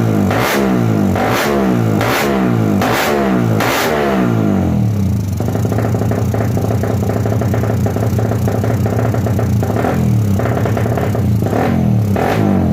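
Suzuki Satria FU motorcycle engine, bored out to 155 cc and fitted with a Fantera racing exhaust, blipped in quick revs through the open pipe. About six revs come in the first few seconds, then it settles to a steady high idle, with two more blips near the end.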